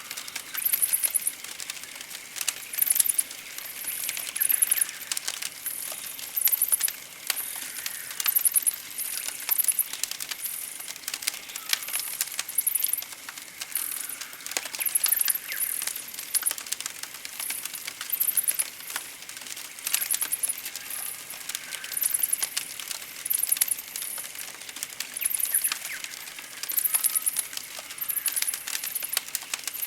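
Campfire crackling with many small sharp pops and clicks, over a forest backdrop of very high, fast-pulsing trills that recur every second or two, with occasional faint chirps from birds.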